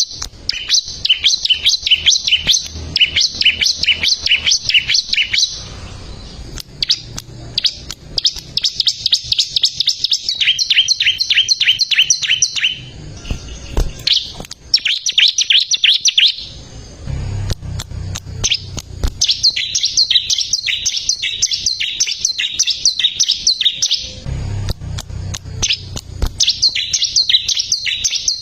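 Bar-winged prinia (ciblek) singing: bouts of rapid, high, evenly repeated chirping notes lasting a few seconds each, broken by short pauses, with a faint low rumble under some stretches.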